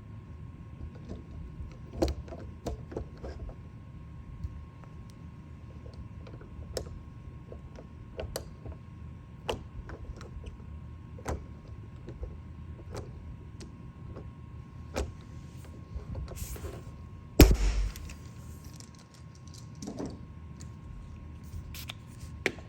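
Scattered light clicks and taps of paintless-dent-repair hand tools being handled and worked, over a steady low hum and a faint steady tone. One much louder knock comes about three-quarters of the way through.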